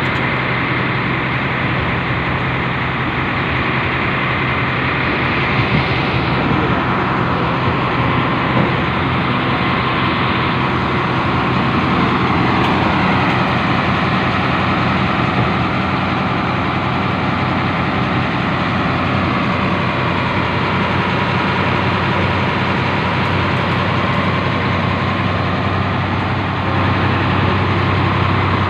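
Industrial train's locomotive running under way: a steady engine hum with continuous rumbling running noise, growing a little louder near the end.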